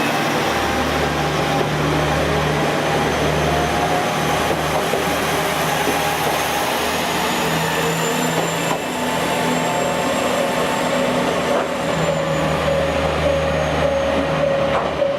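Diesel railcar engine running: a steady low hum that swells and eases, with wavering mid-pitched tones and a faint high whine above it.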